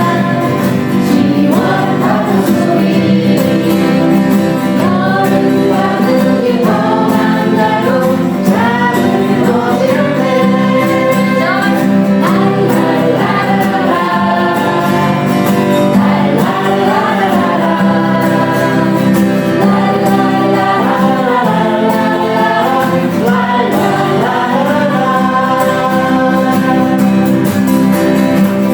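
A song: singing voices carrying a melody over steady instrumental accompaniment.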